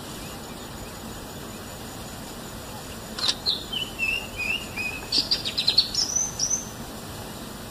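A bird calling in the bush: a sharp note about three seconds in, then a string of chirps sliding up and down, a quick rattle of clicks and a few higher notes, over a steady background hiss.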